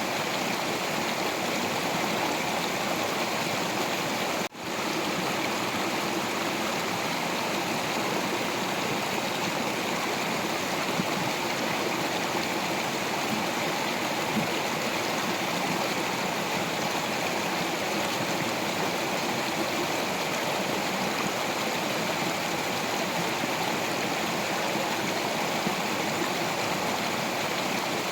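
Stream of water flowing steadily over rocks, a continuous even rush and gurgle, with a momentary dropout about four and a half seconds in.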